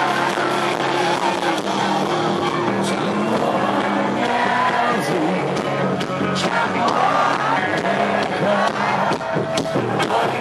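Rock band playing live, with sustained guitar and bass notes and sharp drum and cymbal hits throughout.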